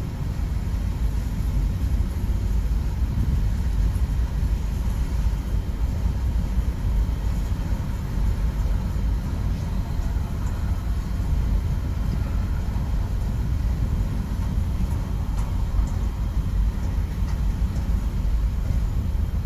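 Autorack freight cars of a passing train rolling by: a steady low rumble of steel wheels on the rails.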